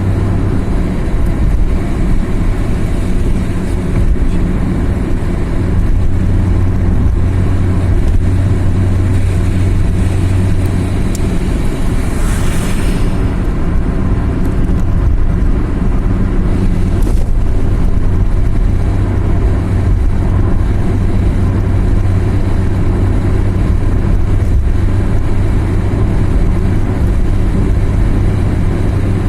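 Car driving on a mountain road: a steady low engine drone with road noise. About twelve seconds in, a brief rushing hiss swells and fades.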